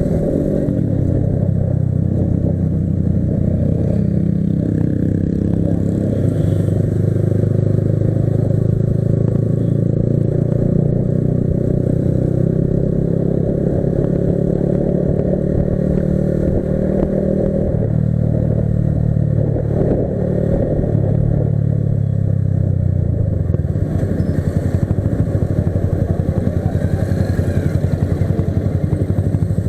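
Yamaha R15 V3's single-cylinder motorcycle engine running steadily as the bike is ridden, its pitch shifting slightly a little over halfway through.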